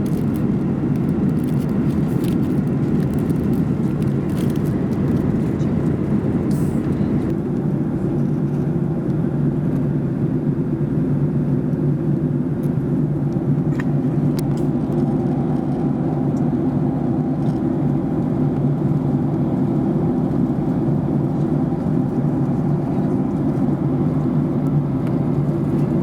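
Steady in-flight cabin noise of a Boeing 737-800 airliner: an unbroken low rush of airflow and jet engine noise at constant power, with a faint tick or two.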